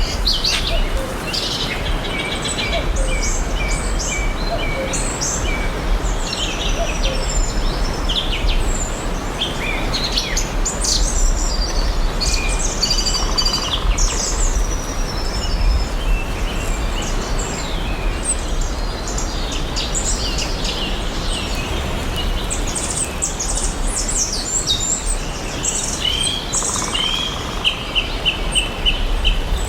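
Several forest birds chirping and singing, many short chirps and whistles overlapping, over a steady background hiss and low rumble. Near the end one bird gives a quick run of short repeated notes.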